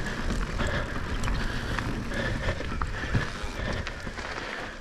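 Electric mountain bike being ridden up a dirt trail: tyre noise on dirt with a steady rumble, and scattered small clicks and rattles from the bike.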